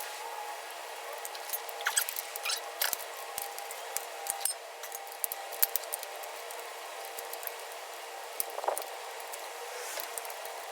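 Irregular light clicks and clinks of hand tools on metal: wrenches and sockets being worked on the bolts that hold the transmission to the engine, over a faint steady hum.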